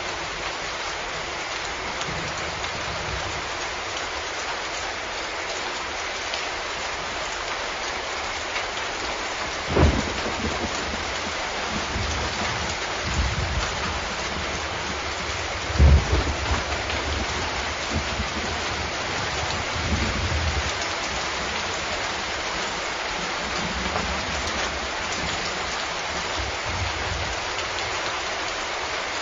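Steady rain falling, with thunder: a sudden clap about a third of the way in, the loudest clap just past halfway, and lower rumbles after it.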